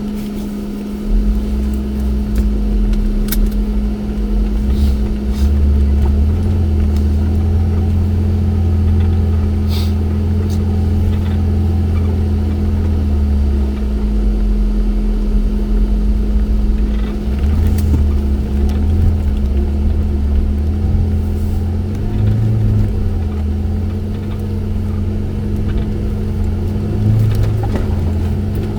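Off-road vehicle's engine working hard, its revs rising and falling over and over, with a steady hum underneath.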